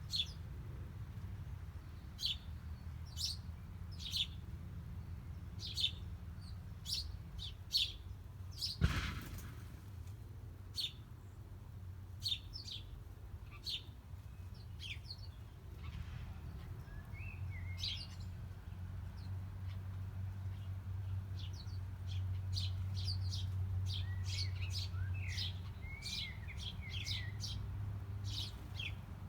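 Small birds chirping: many short, high chirps at irregular intervals, with a few short falling notes in the second half. A brief thump about nine seconds in, and a steady low hum underneath.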